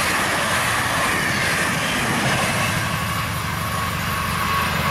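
Red S-Bahn electric multiple unit passing close at speed: a loud, steady rushing noise of wheels on rail and air, holding level throughout.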